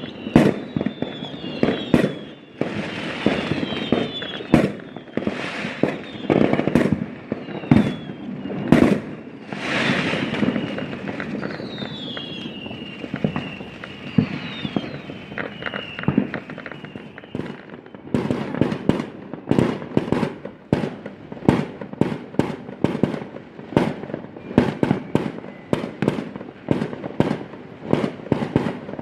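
Bonfire Night fireworks exploding: a long series of sharp bangs and crackles, with thin falling whistles in the first half. Two-thirds of the way in, the bangs turn into a rapid, dense barrage.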